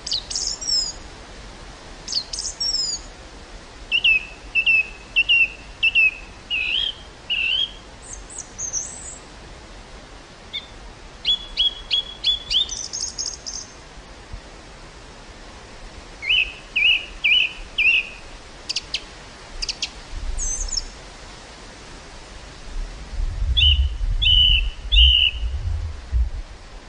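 Small songbirds chirping in quick series of short notes, with pauses between the phrases. In the last few seconds, wind gusts buffet the microphone with a low rumble.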